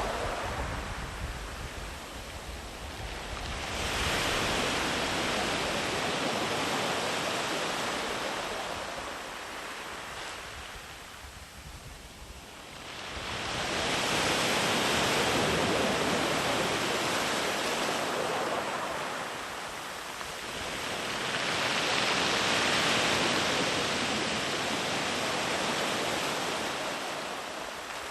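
Sea waves breaking and washing up a beach, the surf swelling and fading three times, about every eight to nine seconds.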